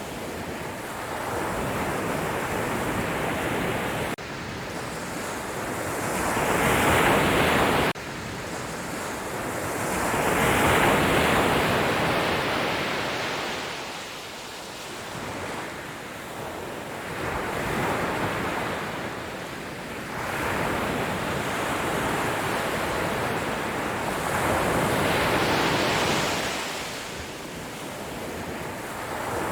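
Sea waves breaking and washing on the shore, the surf swelling and falling away every few seconds, with one loud wave cut off abruptly about eight seconds in.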